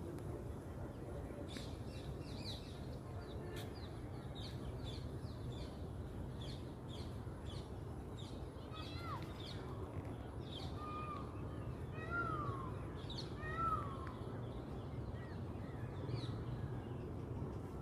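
Birds calling outdoors: quick, repeated high chirps throughout, with a few short falling calls in the second half, over a steady low rumble.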